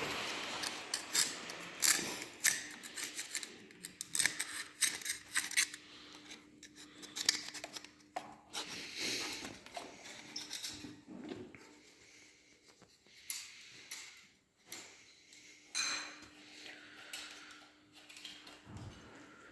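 Irregular metallic clicks, clinks and scrapes of hand tools and parts being handled during tractor engine repair work.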